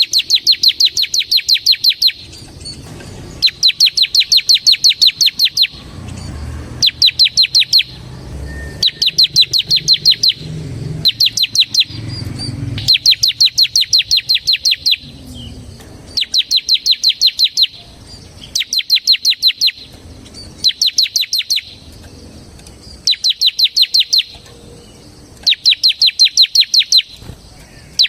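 Bar-winged prinia (ciblek) singing its rapid rattling 'ngebren' song: bursts of quick, sharp, high notes, each burst lasting a second or two, repeated about a dozen times with short pauses between.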